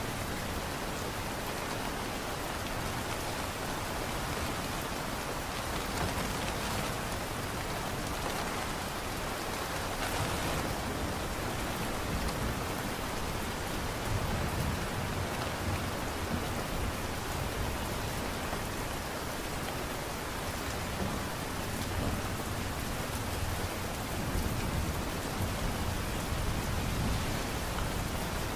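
Light rain falling steadily, with a soft low rumble underneath and the odd faint drop tick.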